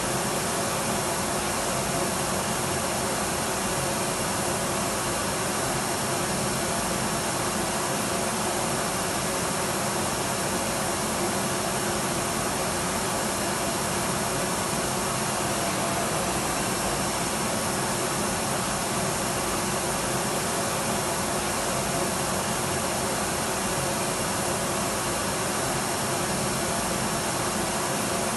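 Electric vacuum cleaner running steadily: a constant rush of air with a faint high motor whine, unchanging in pitch and loudness.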